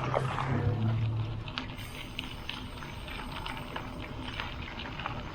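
A passing pickup truck's engine hum, which falls away within the first second and a half. After it, bicycle tyres roll over gravel with many small scattered crackles.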